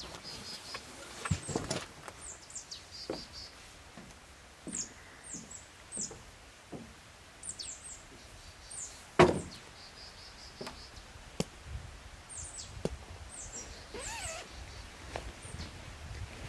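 Small birds chirping repeatedly with short, high, falling calls, over footsteps and the knocks of camping gear being handled. A sharp thump about nine seconds in is the loudest sound.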